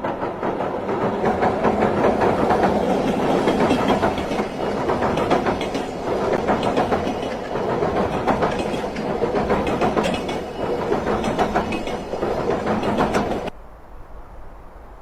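A loud, steady rumble of a moving vehicle with rapid clattering, cutting off suddenly near the end.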